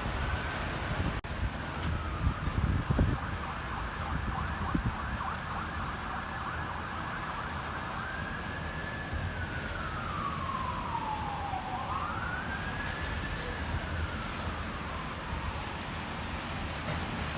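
Emergency vehicle siren wailing, its pitch held high for several seconds, then falling, rising once more and falling away. Gusty wind buffets the microphone with low rumbling thumps in the first few seconds.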